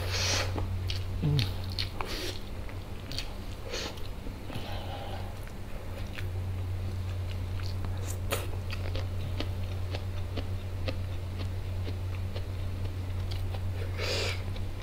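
Close-miked eating sounds: biryani eaten by hand and chewed, with scattered wet mouth clicks and smacks, over a steady low hum.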